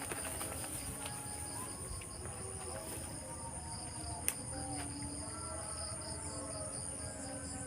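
Crickets chirping steadily in a night insect chorus, with one sharp click a little past halfway.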